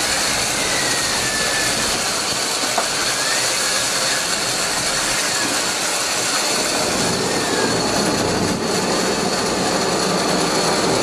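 Steady running of a sportfishing boat's engine with rushing water and wind noise, and a thin high whine held throughout.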